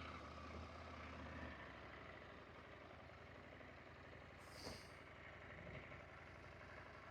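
Faint: an adventure motorcycle's engine idling low, cutting out about a second and a half in, then only a soft steady hiss with one brief tick near the end.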